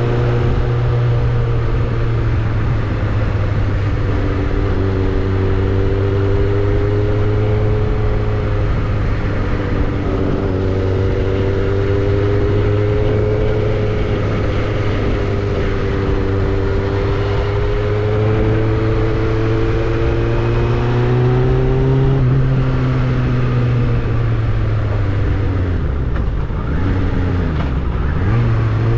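Suzuki Bandit 600 inline-four engine and exhaust running at steady revs, its pitch wandering gently. Near the end the revs drop, then climb again.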